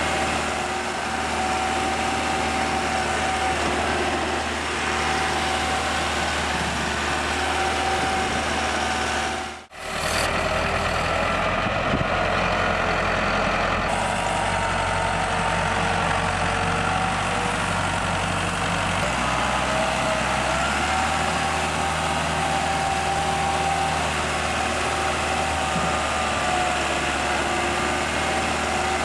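Massey Ferguson 375 tractor's four-cylinder diesel engine running steadily under load while pulling a heavily loaded sugarcane trolley. The sound breaks off for a moment about a third of the way in, then carries on.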